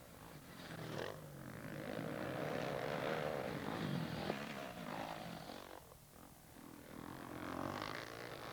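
Motocross dirt bike engines revving as bikes pass on the track. The sound swells over the first few seconds, fades around six seconds in, and builds again near the end.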